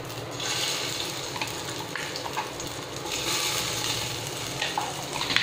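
Green pea paste dropping into hot ghee in a non-stick kadhai and sizzling as it starts to fry, the hiss swelling and easing, with a few light clicks.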